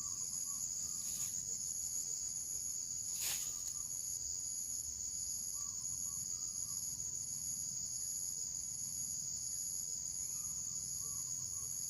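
Steady high-pitched chorus of insects such as crickets, with a faster pulsing trill above it. Faint short chirps come and go every few seconds, and there is a single sharp click about three seconds in.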